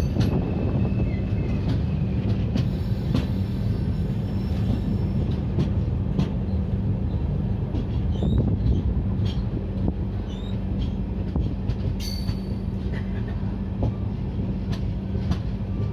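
Indian Railways train running along the track, heard from aboard the coach: a continuous low rumble with a steady low hum and scattered sharp clicks from the wheels on the rails.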